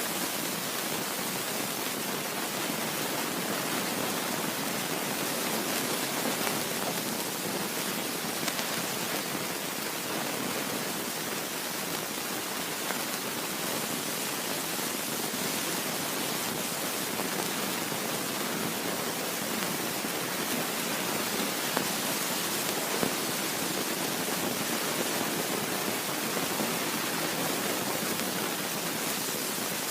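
Steady, even rushing noise of a train in motion, with no distinct clicks or voices.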